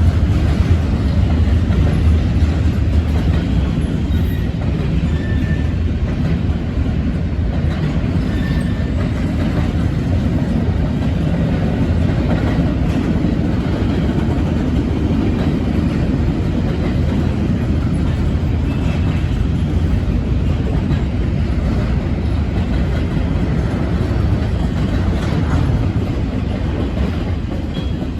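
CSX I138 double-stack intermodal freight train rolling past: a steady rumble of wheels on rail, easing slightly near the end.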